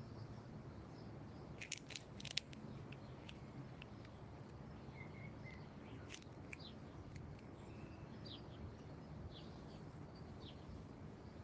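Small birds chirping now and then, short high calls over a steady low background rumble. A few sharp clicks come about two seconds in and once more near the middle.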